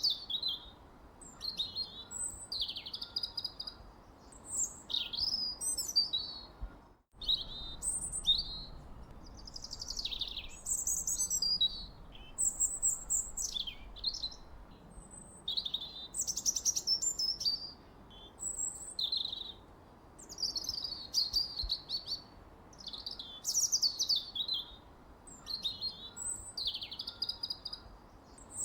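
Birdsong: quick chirps and whistled, sliding phrases, one after another every second or two over a faint steady hiss. The sound drops out completely for a moment about seven seconds in.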